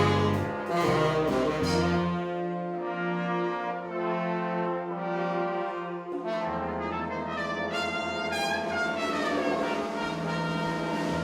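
Jazz big band brass section, trombones and trumpets together, playing long held chords, with a climbing line of notes about halfway through.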